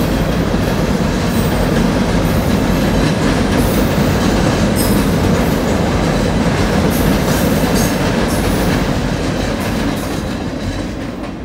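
Freight train of hopper and gondola cars rolling across a steel girder railroad bridge: a loud, steady rumble and clatter of wheels on the rails, with short high squeals. It fades as the last car clears the bridge near the end.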